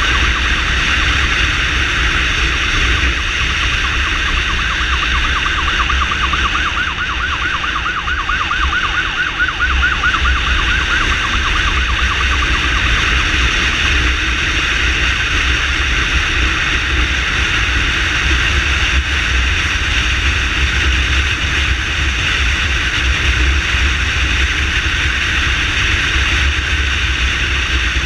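Siren of a SAMU motorcycle ambulance running on an emergency call, a fast warbling wail, clearest in the first ten seconds or so. It sounds over a constant low rumble and rush from riding at speed.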